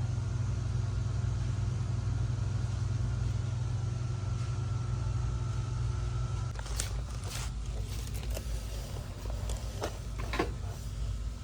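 A steady low machine hum, which cuts off about six and a half seconds in. After that come a few light clicks and knocks.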